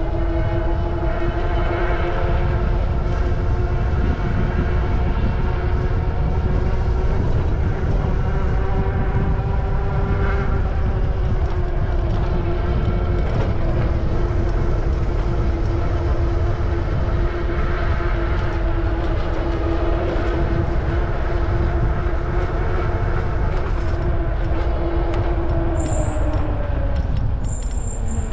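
Steady electric motor whine over heavy wind rush on the microphone during a ride. The whine's pitch slides down near the end as it slows.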